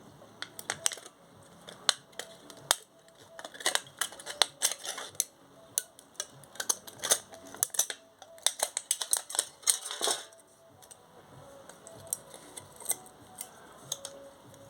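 Scissors cutting thin aluminium from a drink can: a quick run of sharp snips and metallic crinkles that stops about ten seconds in, followed by a few faint ticks.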